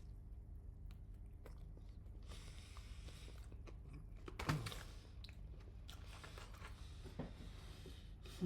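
A person chewing and biting into chicken with its skin close to the microphone, with soft crunches. A short falling vocal sound comes about four and a half seconds in.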